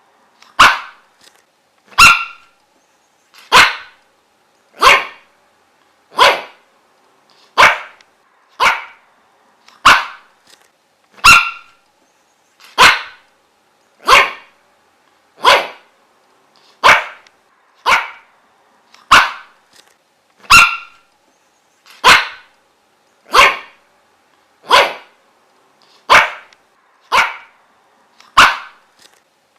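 A dog barking steadily, one short sharp bark about every second and a half, with silence between barks.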